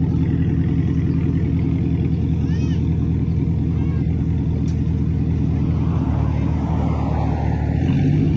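Chevy 6.0 L Vortec V8 running at a steady idle through a muffler-delete exhaust, with straight pipe from the Y-pipe to the tip. The level swells slightly near the end.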